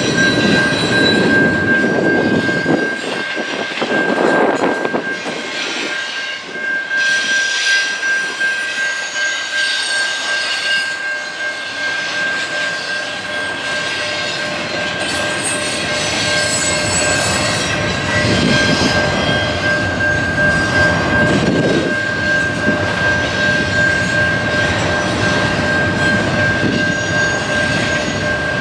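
Train rolling past at close range, a continuous rumble and rattle of cars, with a steady high-pitched squeal held throughout.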